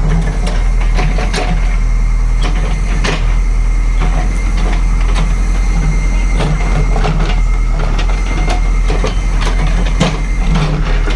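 Diesel engine of a JCB backhoe loader running steadily under load, with repeated metallic knocks and clanks from the machine working.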